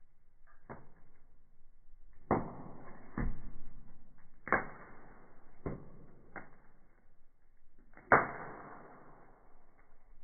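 Wood fire in a fireplace crackling, with several sharp pops that each fade quickly; the loudest comes about eight seconds in.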